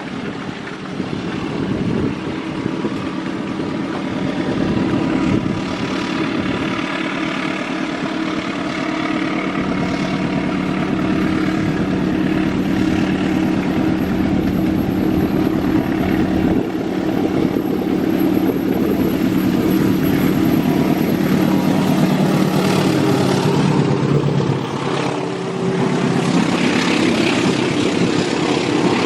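Executive-class passenger train running on a curving track: a steady, loud, low drone that builds a little toward the middle and dips briefly near the end.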